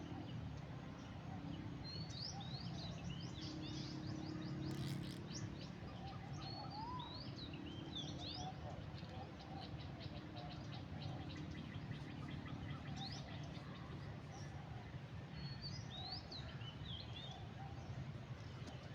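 Small birds chirping and twittering, many short calls and quick trills, over a steady low background rumble.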